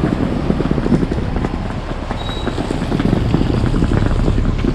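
Steady low rumble of city street traffic, with scattered small knocks and ticks throughout.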